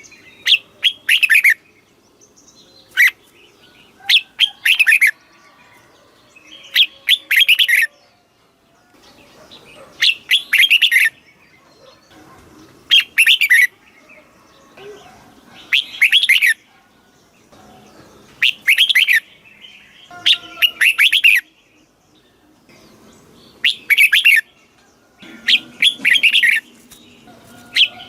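Red-whiskered bulbul singing short warbled phrases of a few quick notes each, one phrase about every two to three seconds. It is a southern-style master song of the kind played to teach young caged bulbuls.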